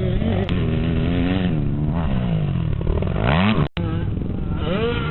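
Motocross motorcycle engines revving, their pitch rising and falling again and again as the throttle opens and closes. The sound drops out for an instant about three and a half seconds in.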